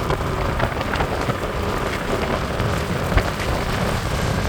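Steady rushing ride noise from a moving bike's microphone, with many small crackles and clicks through it.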